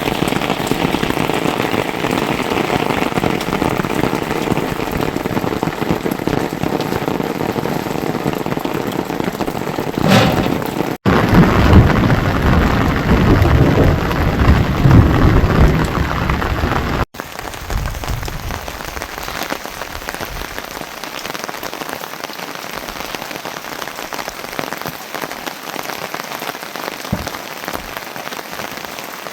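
Steady rain falling in a dense, even patter. The sound changes abruptly twice: it gets louder and deeper for about six seconds in the middle, then turns quieter and lighter to the end.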